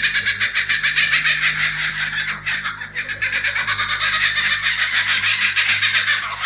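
Kookaburra laughing: a long, loud run of rapid cackling notes with no pause.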